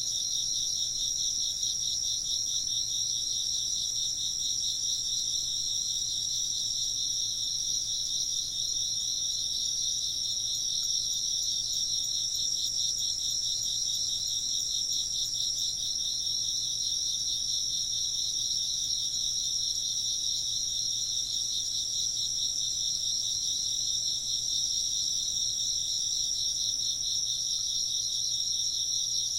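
Insects, crickets by their sound, chirping continuously in a dense chorus: a steady high trill over a lower, rapidly pulsing one, with no wind-chime notes.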